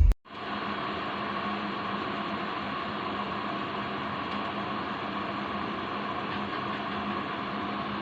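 TohaHome stainless steel electric kettle heating water, giving a steady rushing hiss with a faint hum.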